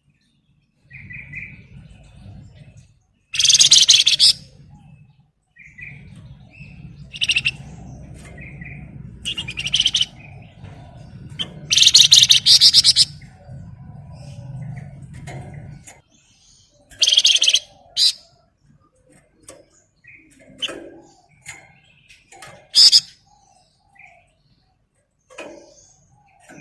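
Flamboyan songbird singing in loud, dense, rapid trills ('ngebren'), about six bursts of a second or less, with short chirps between them.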